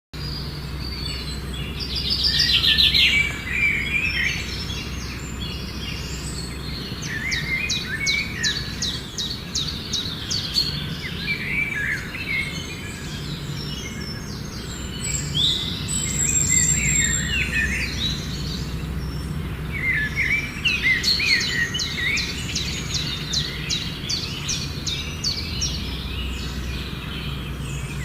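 Several wild birds singing and calling: rapid high trills that come back twice, mixed with shorter chirps. Under them is a steady low rumble.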